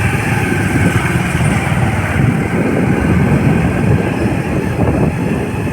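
A motorcycle moving along the road: a loud, steady, dense low rumble of engine and road noise.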